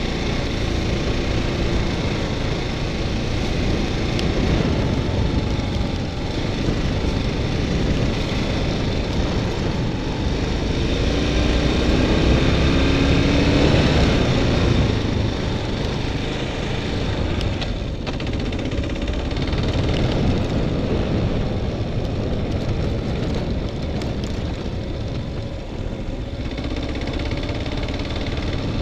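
BMW dual-sport motorcycle engine running under way, with wind buffeting the microphone; the engine note rises for a few seconds about twelve seconds in.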